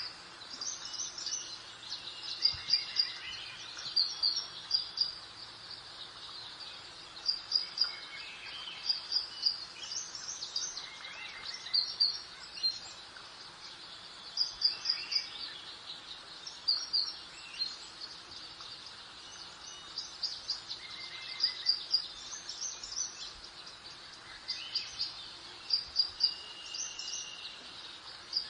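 Birdsong: quick groups of two to four high chirps every second or two, with a few lower whistled notes between them, over a steady soft hiss of breeze.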